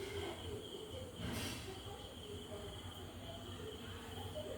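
Faint, steady high-pitched trilling of night insects, typical of crickets, with a brief hiss about a second and a half in.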